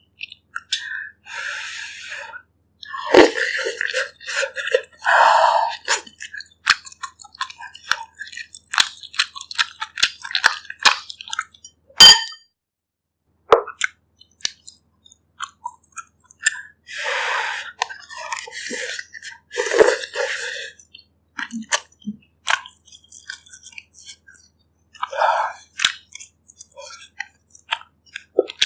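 Close-miked eating: irregular wet chewing and mouth clicks on pork ribs in herbal broth, with several short slurps. A sharp ringing clink, like a spoon on a ceramic bowl, comes about twelve seconds in.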